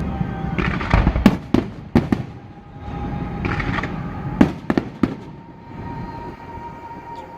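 Aerial fireworks going off: a cluster of sharp bangs a second or so in and another cluster past four seconds, with crackling between them, thinning out toward the end.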